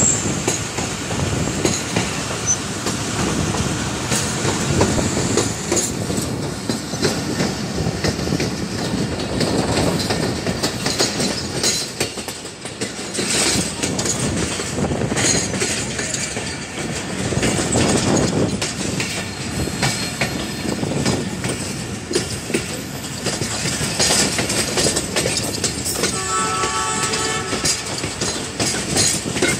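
Passenger train running along the rails, heard from an open coach window: a steady rolling rumble with the clatter of wheels over rail joints. A horn sounds briefly near the end.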